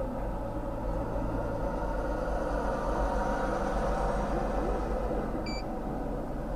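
Steady rumble of a motor vehicle running nearby, with a brief high tone about five and a half seconds in.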